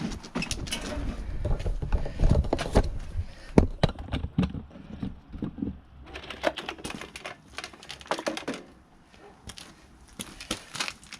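Irregular clicks, knocks and handling clatter from a cordless lawnmower being moved and handled, with a low rumble in the first few seconds.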